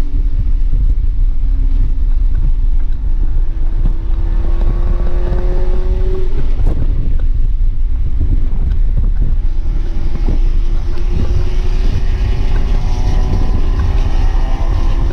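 A stock, 237,000-mile BMW 328i's 3.0-litre inline-six, heard from inside the cabin under hard acceleration on track. Its note climbs steadily, drops away about six seconds in as the car slows, then climbs again. Heavy road and wind rumble runs underneath.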